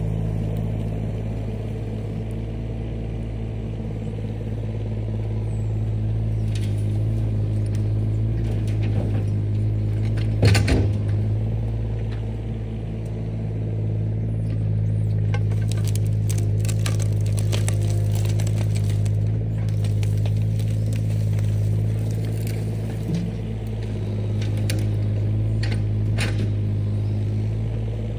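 Heavy earthmoving machine's diesel engine running steadily at a constant speed, with a loud knock about ten seconds in and scattered clicks and knocks through the second half.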